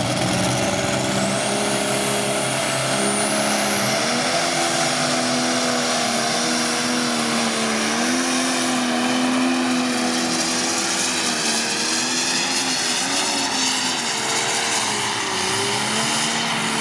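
Diesel engine of a competition pulling vehicle running hard under load down the track. Its pitch wavers as the revs rise and dip, and a high whine climbs over the first few seconds.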